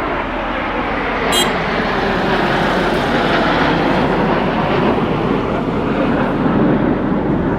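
Formation of military jets flying overhead: a loud, steady jet noise that builds about a second in and holds.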